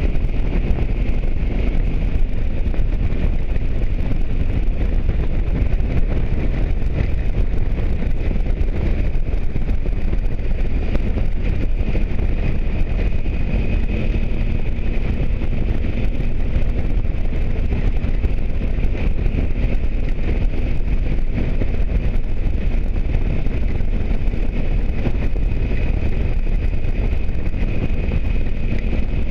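Motorcycle under way: steady wind rush over the microphone mixed with the engine's drone and road noise, unbroken throughout. A faint steady engine note comes through from about twelve seconds in.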